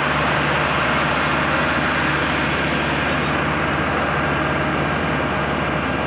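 A loud, steady engine running, with a low hum under a wide hiss, that starts abruptly and holds without rising or falling.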